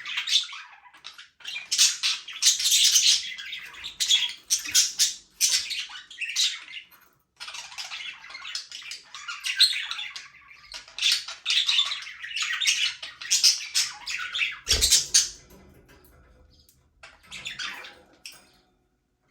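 Budgerigars chattering and squawking in quick bursts of chirps, with a brief knock about three-quarters of the way through. The chatter thins out near the end.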